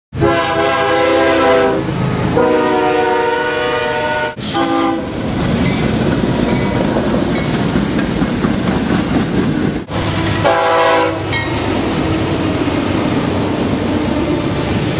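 Diesel freight locomotive horns blow two long blasts, then a short one. After that comes the steady rumble and clatter of freight cars rolling past on the rails. Another horn blast sounds about two-thirds of the way through.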